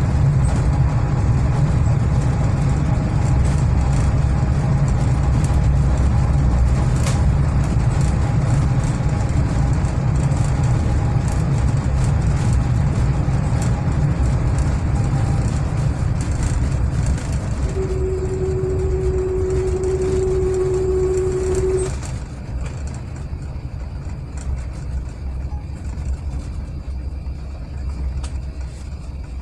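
Airbus A380 cabin noise: a steady low rumble that drops noticeably about two-thirds of the way through. A steady tone is held for about four seconds just before the drop.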